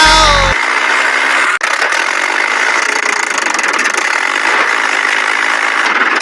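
Toy tractor's small motor and plastic gears running with a steady rattling whirr. A short falling tone is heard at the very start, and the sound drops out for an instant about a second and a half in.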